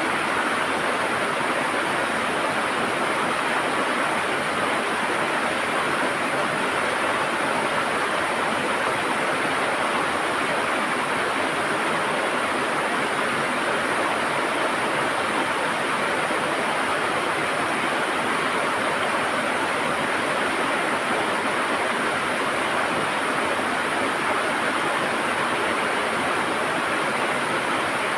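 River water rushing and gurgling over rocks, a steady even sound.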